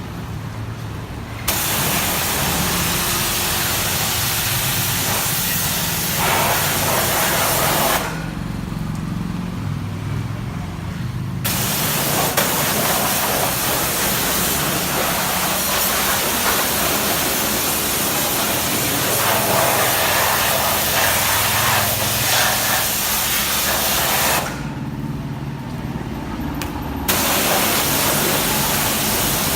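Pressure washer spraying a motorbike with a loud, steady hiss over the hum of its pump motor. The spray starts a second or two in, stops twice for a few seconds, and starts again each time, while the motor keeps running.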